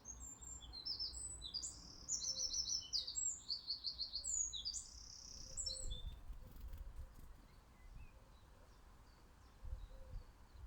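A small songbird singing a fast, high song of quick repeated trilled notes, which stops about halfway through, followed by a few faint chirps.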